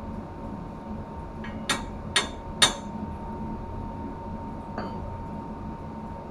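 Three sharp metallic clinks about half a second apart, like a hand tool striking metal, each with a short ring, plus a lighter tap before them and a faint one later. Under them runs a steady machinery hum with a thin high whine.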